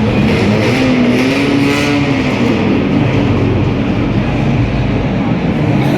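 Car engine running, its revs rising and falling briefly about a second in, over a steady noisy background.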